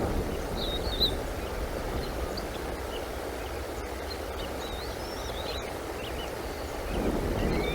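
Wind rumbling steadily on the microphone, with faint, short high bird chirps scattered throughout.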